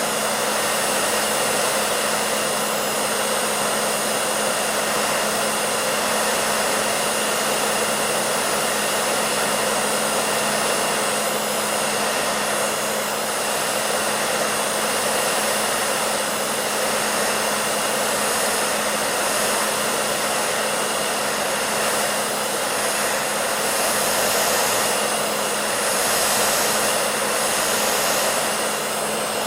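Hair dryer running steadily: a constant blowing rush of air over a steady motor hum, with slight swells in the upper range near the end.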